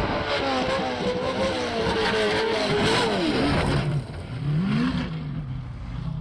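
Off-road race truck's engine running hard at high revs. Its pitch drops about three seconds in, then it revs up and back down once or twice.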